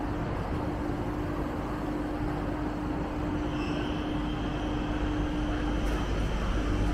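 A train running in the station: a steady rumble with a constant hum, and a faint high whine joining about halfway through as it grows slightly louder.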